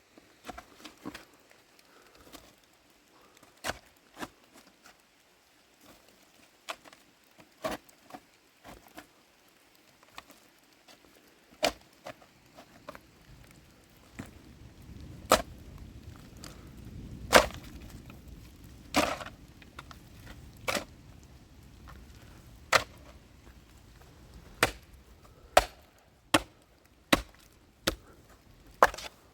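A series of sharp, irregularly spaced knocks or blows, roughly one every second or two, some much louder than others, with a low rumble underneath through the middle.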